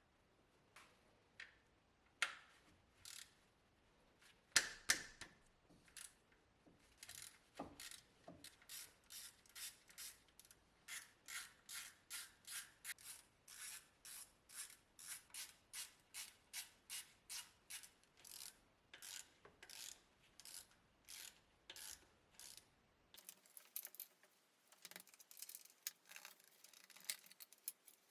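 Hand ratchet wrench clicking in a steady run of strokes, about two a second, after a few scattered knocks of tools on metal.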